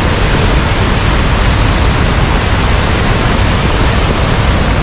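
Wei Sawdong Falls in heavy spate: a loud, steady rush of falling water with a deep rumble, the sound of an extreme flow after torrential rain.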